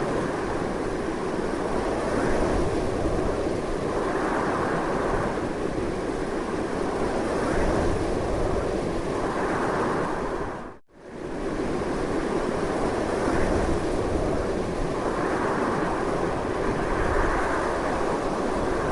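Strong, continuous wind noise with small swells. About halfway through it briefly fades down almost to nothing and straight back up, the seam of the looped recording.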